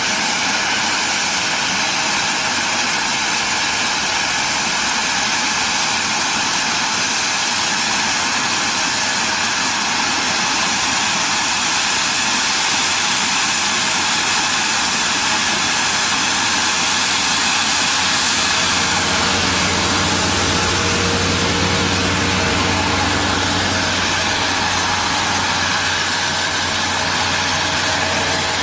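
Steady engine noise with a strong hiss running evenly throughout. A low hum comes in about two-thirds of the way through.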